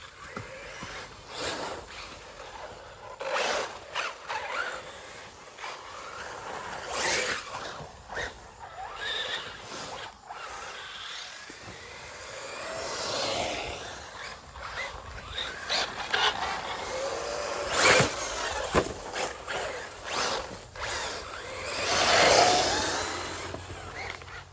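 Electric RC buggies' motors whining, their pitch rising and falling as they accelerate and back off, with knocks and scrapes from the buggies hitting the dirt; the sharpest knock comes a little after two thirds of the way in.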